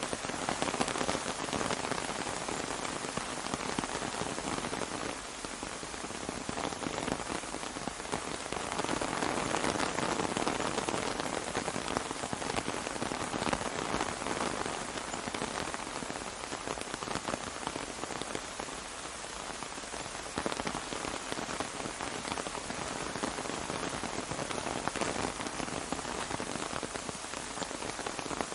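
Steady rain pattering on an umbrella, a dense even spray of drops that swells a little partway through.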